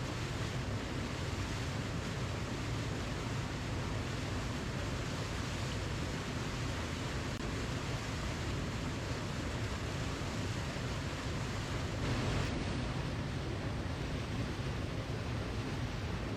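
Waterfall: a steady rush of falling water, swelling slightly about twelve seconds in.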